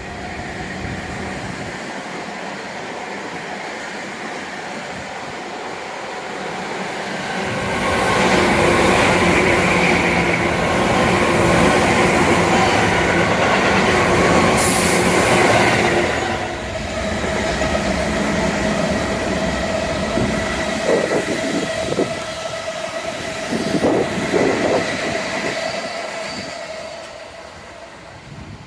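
Tobu Tojo Line electric train passing. Its running noise builds about seven seconds in to a loud rumble of wheels and motors lasting some eight seconds, with a brief sharp hiss near the middle. It then eases into a steady whine with a few knocks as it runs on.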